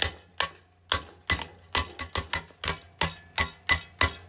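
Sharp metallic taps or clicks, about three a second in an even run, from tools working on the piece that holds the mower blade as it is taken off the engine.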